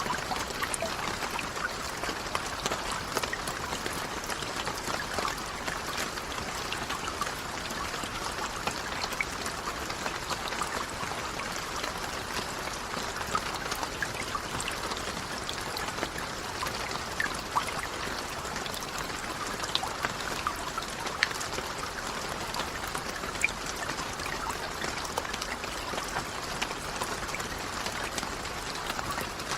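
Steady rain falling, an even hiss sprinkled with many small, sharp drop ticks.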